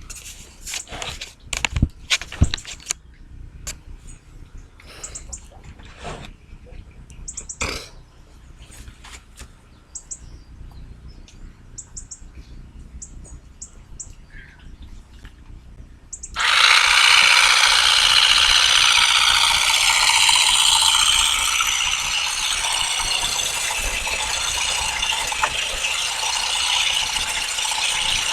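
Olives being harvested off a tree: scattered knocks and clicks with a few short, high chirps, then, about sixteen seconds in, a loud, continuous rattling clatter starts abruptly and keeps going.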